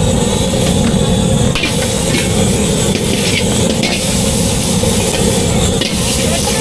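Steady loud roar and sizzle of street-food frying, with a few light clicks and scrapes of utensils.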